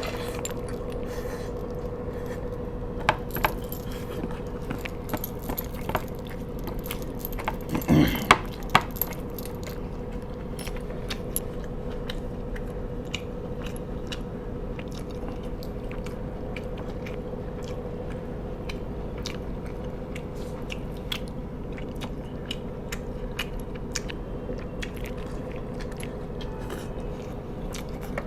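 Close-miked eating: chewing and biting into food, with many small sharp clicks and a louder clatter about eight seconds in, over a steady low hum.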